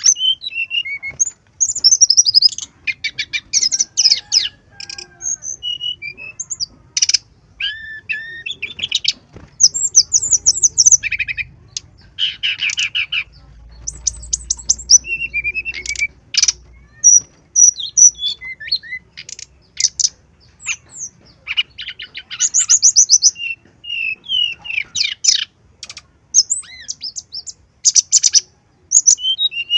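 Brown-chested jungle flycatcher singing a varied song of rapid, high trills and chirps, delivered in short phrases with brief pauses between them.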